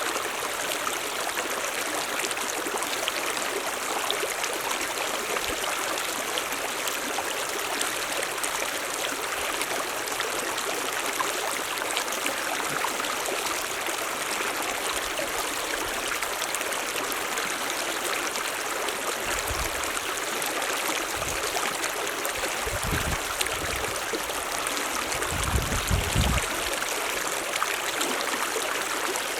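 Mountain stream running steadily, an even rush of water. A few low rumbles come and go in the last third.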